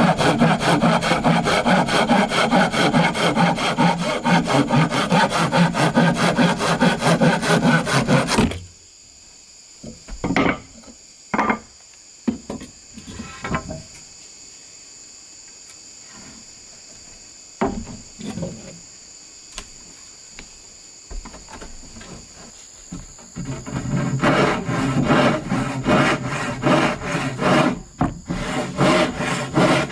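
Hand saw cutting bamboo in quick, rhythmic back-and-forth strokes. The sawing stops about eight seconds in, leaving a few knocks and a steady high insect drone, and starts again near the end.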